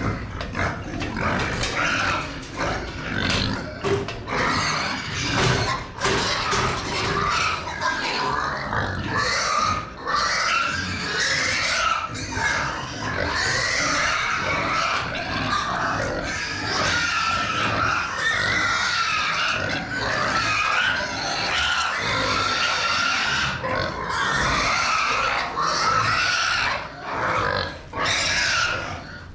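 Pigs squealing loudly, in long wavering high cries that go on almost without a break.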